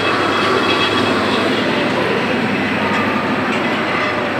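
Bangladesh Railway intercity passenger coaches rolling past: a steady rumble of steel wheels on the rails.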